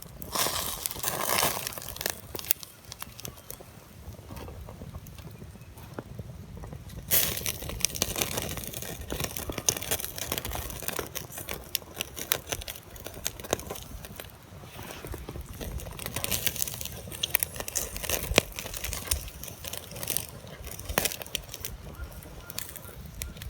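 Wood campfire crackling, with many irregular sharp snaps and pops over a low steady hiss, and louder bursts near the start and about seven seconds in.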